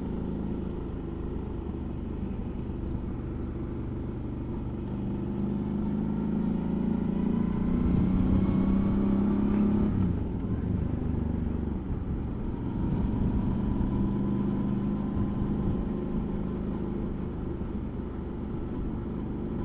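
Suzuki V-Strom motorcycle engine running under way, with road and wind rumble. The engine note climbs as the bike accelerates, then drops sharply about ten seconds in at a gear change and runs steadily after that.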